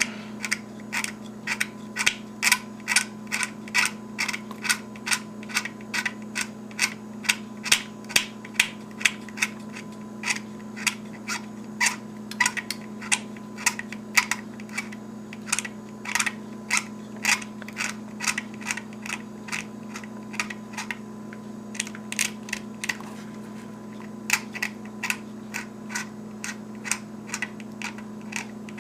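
X-Acto knife blade lightly scraping the printed number off the plastic shell of an HO-scale model locomotive, in short repeated strokes about two a second, with a brief pause about two-thirds of the way through. A steady low hum runs underneath.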